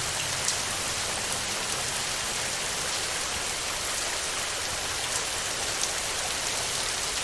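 Heavy rain falling steadily on a tin roof, a constant hiss with individual drops ticking sharply now and then.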